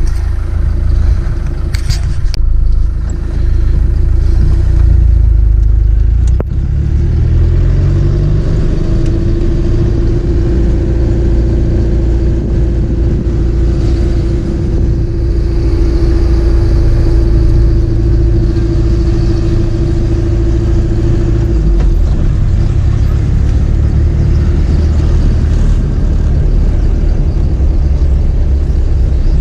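Car engine and road noise while driving, the engine speeding up about six seconds in, with a steady drone through the middle.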